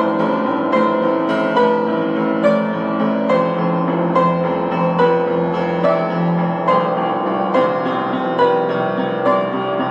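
Piano music: a slow, gentle piece with notes struck one after another over held chords.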